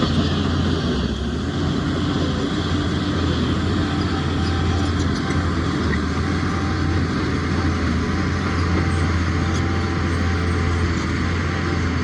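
Heavy diesel engine of earthmoving machinery running steadily under load, with a constant low drone and a few faint clanks.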